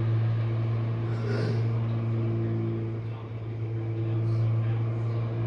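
Jenn-Air dishwasher running mid-cycle: the wash pump motor gives a steady, even hum with water circulating inside.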